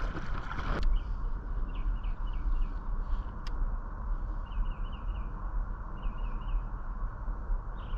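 Small bird chirping in short quick groups of notes, three or four times, over a steady low rumble of outdoor noise, with one sharp click midway.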